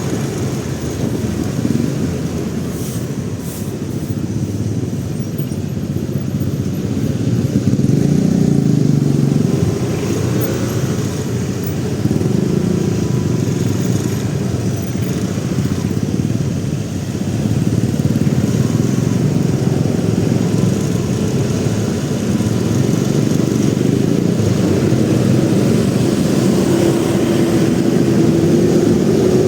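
Motorcycle engine running while riding through city traffic, a steady rumble that swells and eases with the throttle. A steadier engine tone comes in near the end.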